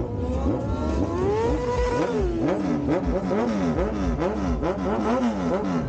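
Streetfighter motorcycle engine revving: it climbs in pitch over the first second or so, then the throttle is blipped up and down rapidly, about twice a second.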